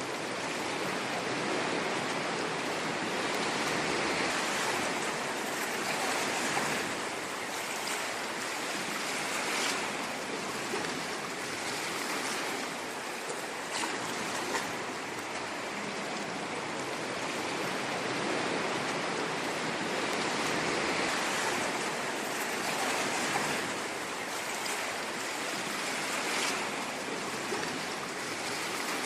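Ocean waves washing ashore: a steady rushing hiss that swells and eases every several seconds, with faint crackles of fizzing surf.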